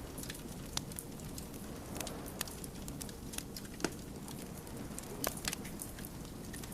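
Wood fire burning with irregular crackles and pops over a steady low rumble of flames; the sharpest pops come just before the middle and a little after it.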